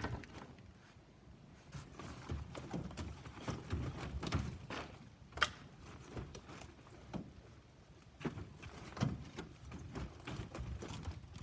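Scattered light knocks, clinks and scrapes of scrap metal being shifted and set down in a pickup truck bed during unloading, with one sharper clank about five seconds in.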